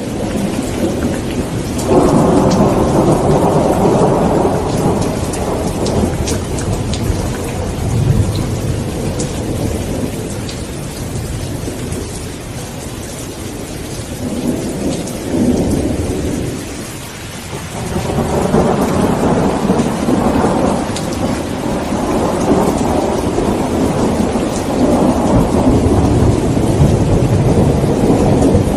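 Steady heavy rain with long rolling thunder. Rumbles swell about two seconds in, again around the middle, and through the last ten seconds.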